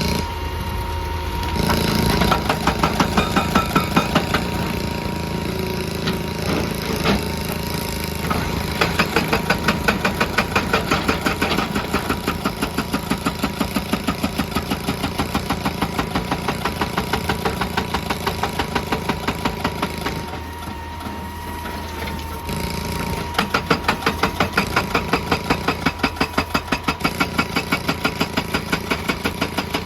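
Excavator-mounted hydraulic rock breaker hammering on rock in rapid, even blows, about four or five a second, over the excavator's running diesel engine. The hammering pauses briefly about two-thirds of the way through, then starts again.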